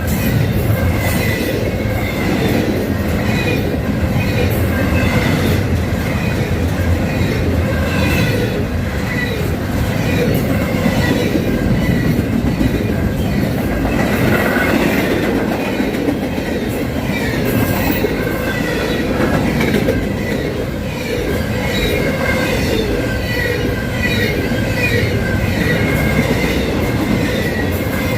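Freight cars rolling past on the rails, a steady rumble with wheels clacking over rail joints and squealing now and then.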